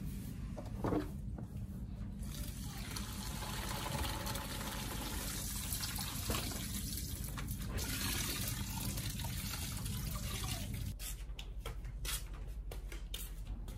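Water running from a tap and sloshing in a bowl as pounded beans are washed. It stops about eleven seconds in, and a few light clicks follow.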